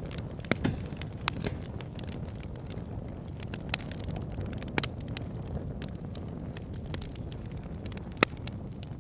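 Wood fire burning in a fireplace: a steady low rush of flames with irregular sharp crackles and pops, the loudest pop near the end.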